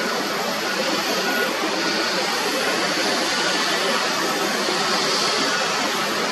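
Jet airliner engines heard as a steady rushing noise, with the high hiss swelling slightly a few seconds in.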